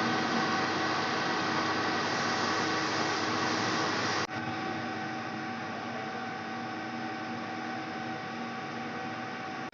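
Metal lathe running steadily: a machine hum with several constant tones over a hiss. About four seconds in there is a sharp click and the sound drops a little in level, then runs on unchanged.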